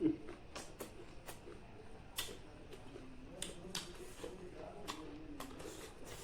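Close-miked eating sounds: about a dozen sharp mouth clicks and smacks while chewing, scattered irregularly, the loudest right at the start.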